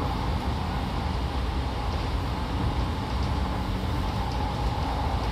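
Odakyu 5000 series commuter train running at speed, heard from inside the passenger car: a steady rumble of wheels on rail and running gear.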